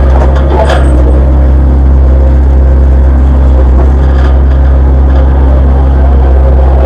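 Sany hydraulic excavator's diesel engine running steadily under work, a loud low drone with a couple of brief knocks.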